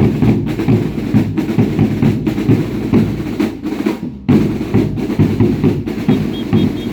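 Drums beating a steady, repeating dance rhythm for a baile indio, loud and heavy in the low end, with a brief break about four seconds in.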